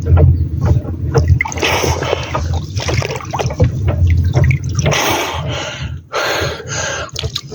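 Water splashing and sloshing in uneven bursts with small drips, over a steady low rumble.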